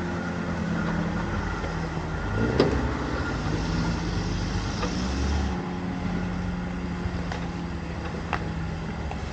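Off-road 4x4 engine running steadily at low revs, with a sharp knock about two and a half seconds in and a couple of faint clicks near the end.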